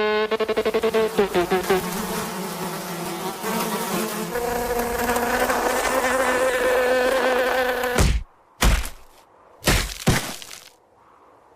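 Cartoon insect buzzing sound effect: a loud, pitched buzz that pulses rapidly and bends in pitch, then holds steady before cutting off suddenly about eight seconds in. Three short, sharp hits follow.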